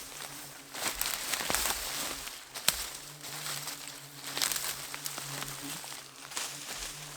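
Dry bracken rustling and crunching as it is trampled and cleared, with irregular swishes and sharp cracks. A steady low buzz starts about three seconds in.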